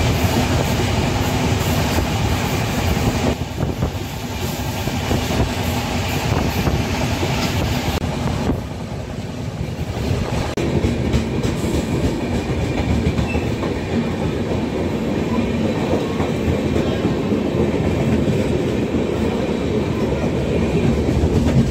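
Passenger train running, heard from inside a coach: a steady, dense rumble of wheels on the rails. The sound shifts abruptly about three and about eight and a half seconds in.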